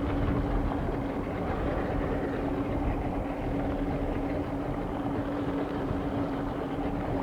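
Boat engine running at a steady speed, a constant hum over the rumble of wind and water.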